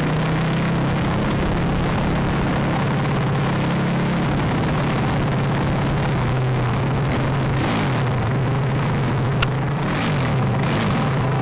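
Minibike engine running steadily at low road speed, its pitch dipping a little and rising again near the end as the throttle changes, with one sharp click about nine and a half seconds in.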